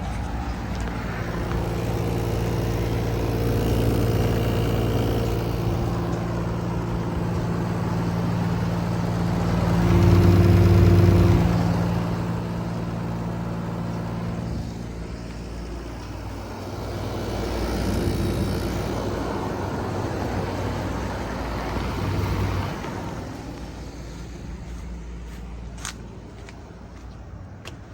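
2011 Comfortaire window air conditioner running: a steady low compressor hum under the rush of its fan. The compressor is described as bad sounding. It is loudest about a third of the way in and grows quieter near the end, with a few clicks.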